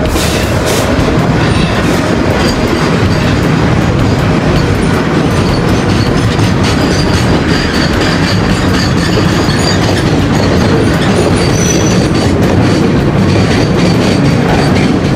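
Train wheels clattering over the rails with a loud, steady rushing rumble, heard from a moving passenger train as a container freight train passes close by on the next track. Faint high-pitched wheel squeal comes and goes through the second half.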